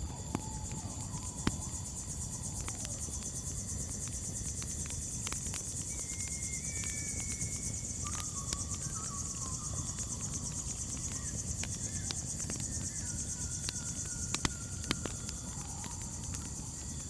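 Crickets chirring steadily at a high pitch, with sharp crackles from a campfire now and then over a low steady rumble, and a few faint whistles in the background.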